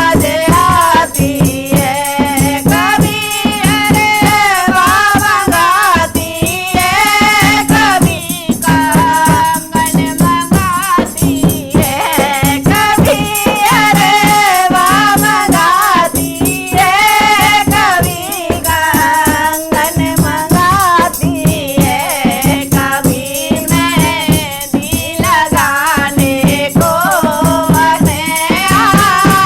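Hindi devotional bhajan: a sung melody over fast, steady percussion with a rattling shaker-like beat.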